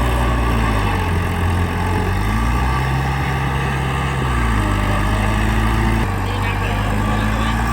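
Heavy earthmoving machinery's diesel engine running under varying load, its low hum rising in pitch about two and a half seconds in, falling back around four and a half seconds, and shifting again near six seconds.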